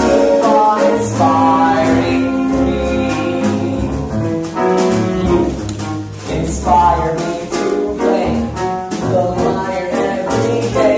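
A small live theatre orchestra of strings, woodwinds, bass and drums playing a musical-theatre song, with a singing voice over it.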